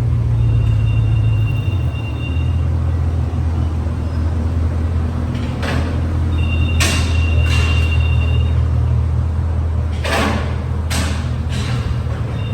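Chevrolet Caprice Classic engine idling through a freshly fitted Flowmaster Flow FX muffler and turn-down exhaust, a steady low rumble. A faint high steady tone sounds twice, and several short hissy noises come in the second half.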